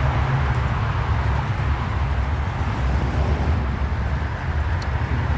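Steady low rumble of car engines running, with a haze of outdoor noise over it.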